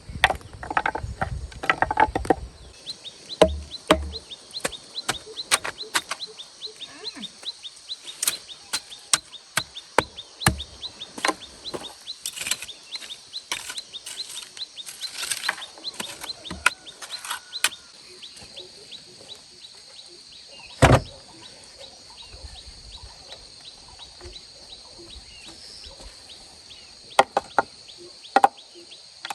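Irregular sharp knocks of a blade chopping and tapping bamboo, dense for the first two-thirds, then one loud blow and a few last strikes near the end. A steady high insect trill and occasional chicken and bird calls run underneath.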